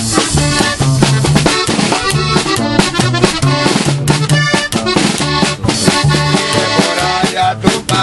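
Live norteño music from a small band: accordion melody over a steady drum beat and bass line, an instrumental passage without singing.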